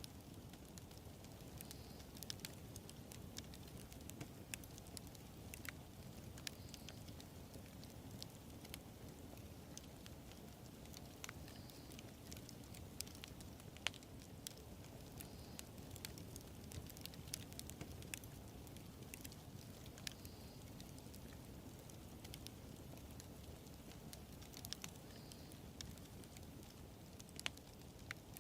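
Wood fire burning: a low, steady rush of flames with scattered sharp crackles and pops, one louder pop about halfway through.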